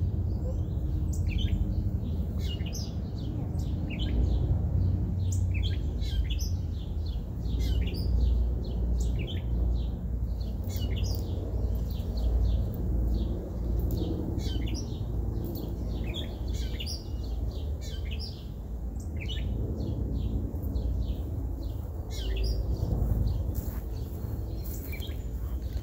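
Small birds chirping repeatedly and irregularly, over a steady low rumble.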